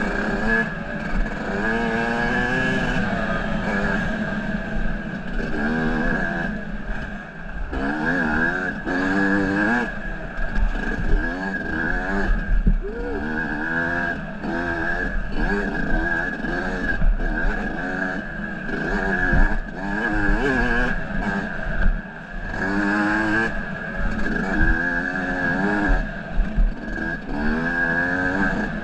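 Off-road vehicle engine being ridden along a trail, its revs rising and falling over and over as the throttle is worked on and off.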